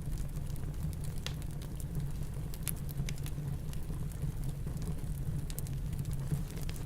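Fireplace crackling, with scattered sharp pops and clicks, over a steady low rumble of snowstorm wind.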